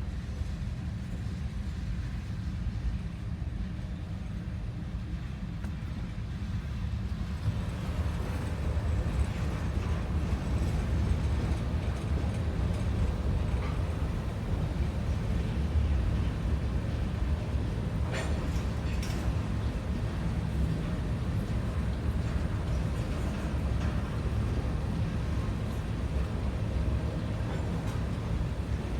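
Freight train of hopper cars rolling past slowly: a steady low rumble of steel wheels on rail that grows louder about seven seconds in, with a couple of faint clicks about two-thirds through.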